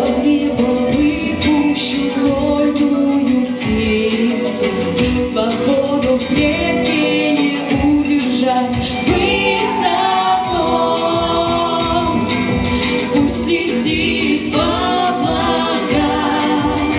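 A female solo voice sings a song in long, sustained notes with vibrato over instrumental backing with a steady beat.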